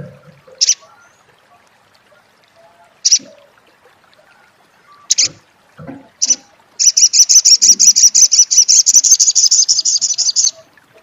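Olive-backed sunbird (sriganti) calling: several single sharp chirps a second or two apart, then a long, fast rattling 'crecet' trill of about ten notes a second lasting nearly four seconds.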